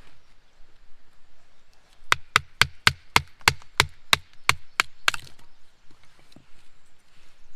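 Firewood being chopped: about ten quick, evenly paced strikes, roughly three a second, in a short run a couple of seconds in.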